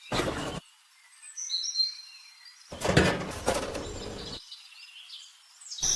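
Birds chirping over rural background ambience, with two short noises: one at the very start and a longer one about three seconds in.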